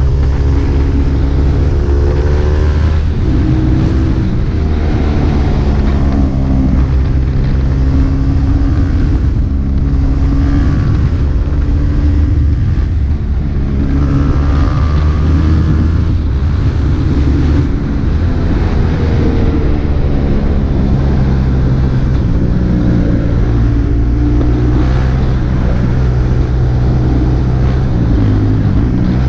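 KTM RC 390's single-cylinder engine through an Akrapovic exhaust, on the move. The engine note rises and falls repeatedly as the bike accelerates and eases off.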